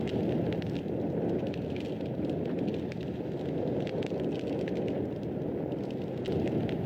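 Wood fire in a fireplace crackling: a steady low rush of burning with frequent small, sharp crackles and pops.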